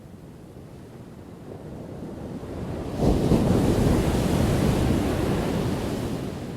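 An ocean wave building and breaking: a low rumble swells, then crashes suddenly about three seconds in into a loud hissing wash that slowly fades away.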